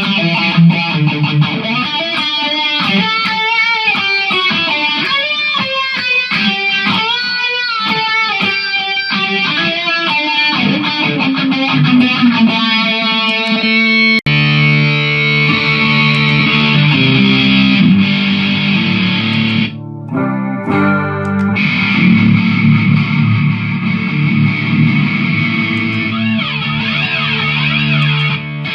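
Electric guitar played through a Mooer GE150 multi-effects pedal: a single-note lead line with string bends and vibrato, then, about halfway through, an abrupt switch to heavier distorted chords.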